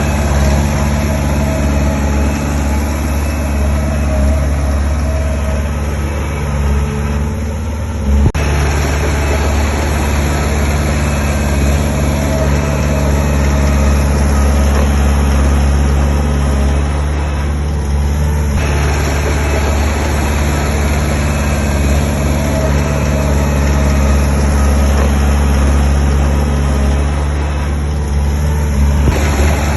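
Heavy diesel earthmoving machinery running steadily. The higher part of the sound fades and then cuts back in sharply three times, about ten seconds apart.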